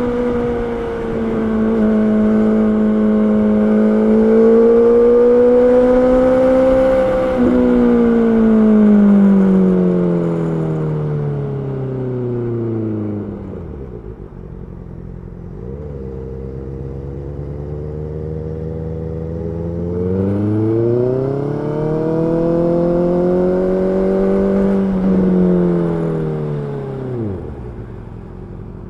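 Honda CB650R's inline-four engine running, its pitch holding, then falling over several seconds, settling low, rising again and dropping off near the end as engine speed goes up and down.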